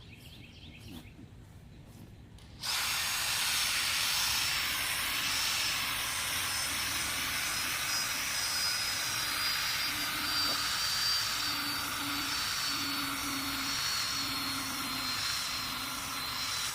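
Power drill spinning a wet sponge pad against a plastic headlight lens, starting about three seconds in: a steady scrubbing hiss under a high motor whine that slowly sinks in pitch.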